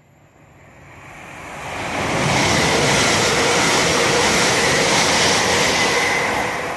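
Lumo Class 803 electric train passing at speed: a rush of wheels on rail and air that builds over the first two seconds, holds loud with a steady tone running through it, and starts to fade near the end.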